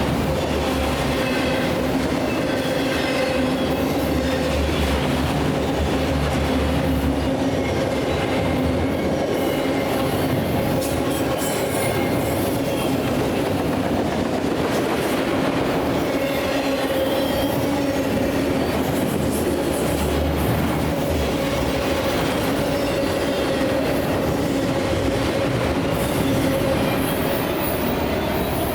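Train cars rolling past steadily, with a continuous rumble and high wheel squeal that comes and goes.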